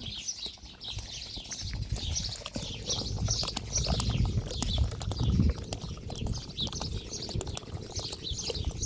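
Small birds chirping over and over in quick short calls, with scattered knocks and low thudding underneath that is loudest in the middle.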